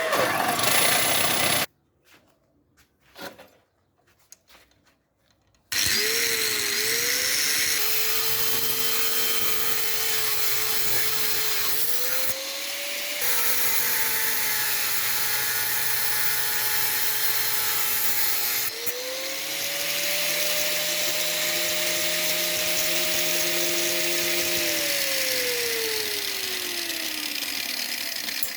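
A power tool's motor running. It stops briefly with a few knocks, then starts again and runs steadily, changing speed a couple of times and winding down in pitch near the end.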